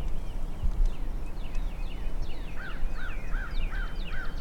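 A run of five evenly spaced yelps, each rising then falling, in the second half, typical of a turkey yelping. Songbirds chirp throughout over a low wind rumble.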